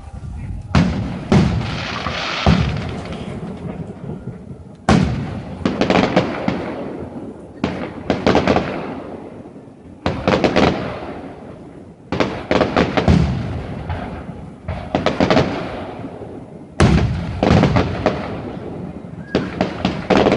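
Fireworks going off one after another: sharp bangs, often several in a quick cluster, each fading away in a rumbling echo.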